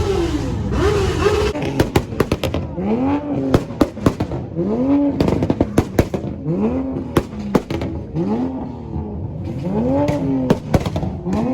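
A car engine being revved over and over in quick blips, each rev rising and falling in pitch roughly every second and a half. Sharp exhaust pops and crackles are scattered between the revs.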